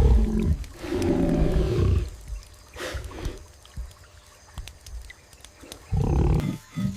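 A big cat, a black leopard, growling: a long growl into the first second, a second about a second later, and a shorter one about six seconds in.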